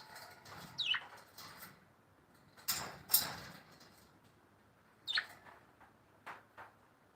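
Birds calling, with two quick falling chirps about a second in and again about five seconds in, and a louder scratchy rustle around three seconds in.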